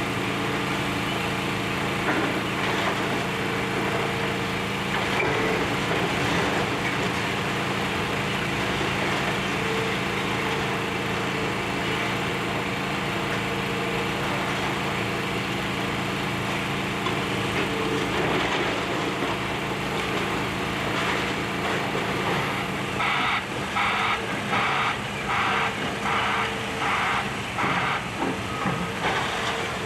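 Demolition excavator's diesel engine running steadily under a dense clatter of debris. About three-quarters of the way through, a reversing alarm starts beeping in an even series, roughly one and a half beeps a second.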